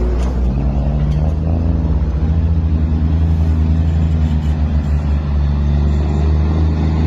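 Truck engine running steadily at an even low pitch, rising slightly about half a second in.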